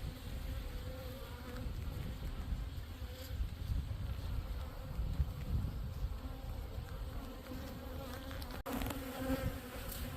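Honeybees buzzing around the hive entrance: a steady drone of many wingbeats, briefly broken by a cut near the end.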